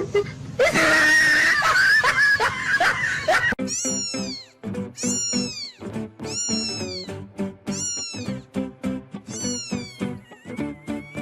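A cat meowing, a loud drawn-out call in the first seconds and then five separate meows about a second and a half apart, each rising then falling in pitch, over background music with a steady beat.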